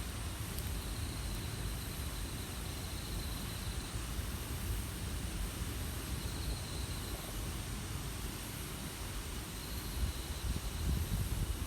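Steady outdoor hiss and low rumble, with a high, pulsing insect trill that comes and goes three times. Stronger bursts of low rumble come near the end.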